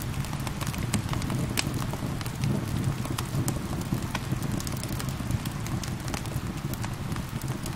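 Wood fire crackling in a fireplace: many small, sharp, irregular pops over a steady low rushing noise, with gentle rain mixed in.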